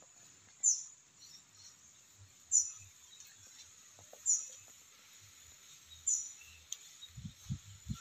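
A small bird giving short, high, downward-sliding chirps, one about every two seconds. A few soft low thumps near the end.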